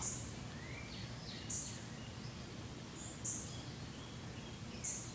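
Bird calls over a steady outdoor background hiss: a short, high, buzzy note repeated about every second and a half, each with a fainter sliding note below it.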